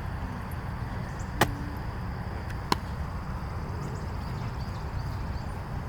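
Steady low outdoor rumble with two sharp knocks, the first about a second and a half in and the second just over a second later.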